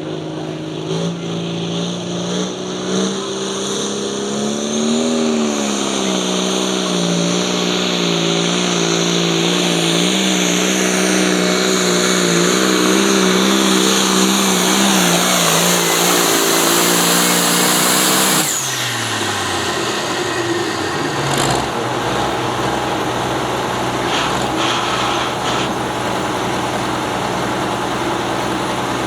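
Pulling vehicle's engine running hard and steady under load, with a high whine above it, for a long pull. About two-thirds of the way through it is suddenly let off: the whine and the engine pitch fall away, and it settles to a lower running note.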